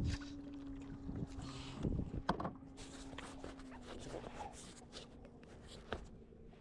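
Faint knocks and clicks of handling the catch and gear in a kayak, over a steady faint hum that drops slightly in pitch about four seconds in.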